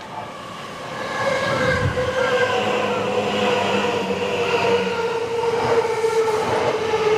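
Train running through a station, growing louder about a second in and holding there, with steady high tones over the rolling rumble.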